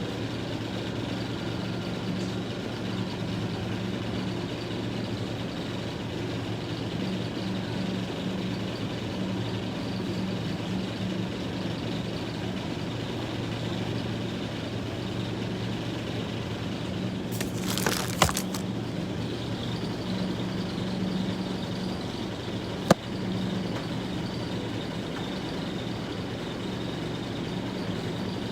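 Steady vehicle engine hum with a low drone, heard from inside a car. About two-thirds of the way through comes a brief rattle, then a single sharp click a few seconds later.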